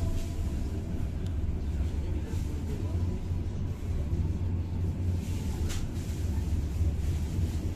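Steady low rumble of a passenger train running along the track, heard from inside the coach, with a brief knock about six seconds in.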